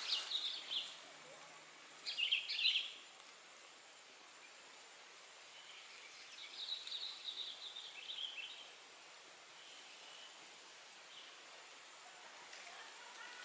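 Birds chirping in short high bursts over a steady outdoor hiss: once at the start, loudest about two seconds in, and again in a longer run from about six to eight and a half seconds in.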